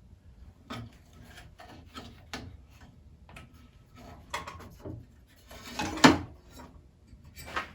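Old rubber tire being pried and pulled off the lower wheel of a Craftsman 12-inch bandsaw: scattered rubbing and scraping with short clicks, the loudest a sharp click about six seconds in.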